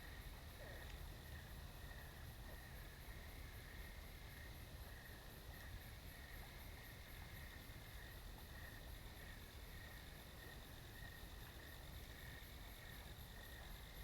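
Night insects, crickets among them, chirping faintly in steady, evenly repeated pulses at several pitches over a low background hum.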